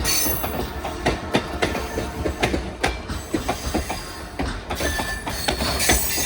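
CPKC Holiday Train's cars rolling past, the wheels clacking over rail joints in a quick irregular rhythm, with a thin high wheel squeal at times.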